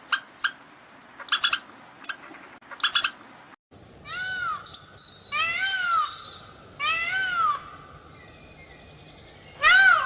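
Animal calls: short sharp chirps for the first few seconds, then after a brief break a series of four drawn-out, clear calls that each rise and fall in pitch, about a second and a half apart.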